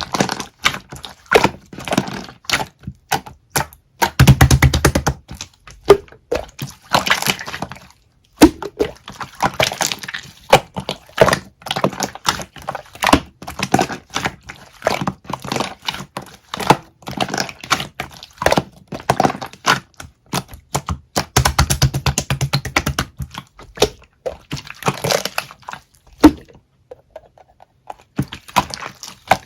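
Slime being squished, poked and stretched by hand, giving dense runs of crackling clicks and pops. Two short stretches of heavier low sound come about four seconds in and again past the twenty-second mark, and there is a brief lull near the end.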